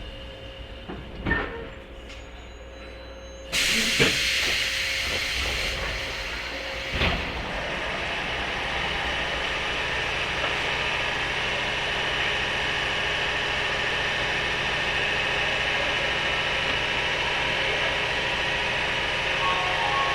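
Running noise heard inside a 103-series electric train's motor car: a few sharp rail-joint clacks over a quieter rumble, then about three and a half seconds in the noise jumps suddenly to a loud, steady rushing hiss that carries on.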